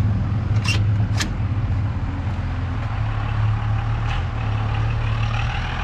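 A steady low engine hum, with two sharp clicks about a second in.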